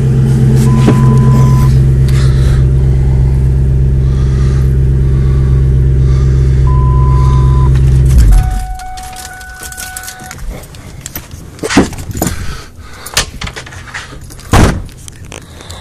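1999 Mustang GT's 4.6-litre V8 idling steadily through a Mac catback exhaust, then switched off about eight seconds in. After shutdown a steady electronic tone sounds for about two seconds, followed by a few sharp clicks and rattles.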